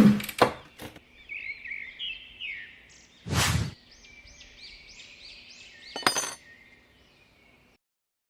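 A small bird chirping in a quick run of short rising-and-falling notes. A brief loud rush of noise comes about three seconds in and a sharp clink near six seconds, and all sound cuts off shortly before the end.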